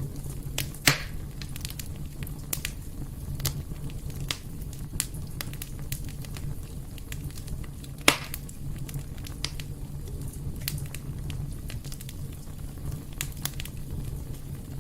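Wood fire in a fireplace crackling: irregular sharp pops and snaps over a low steady rumble, with two loud pops, about a second in and about eight seconds in.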